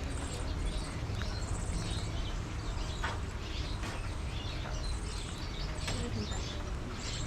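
Parrots calling and chattering: many short chirps and squawks, with no pause, over a steady low rumble.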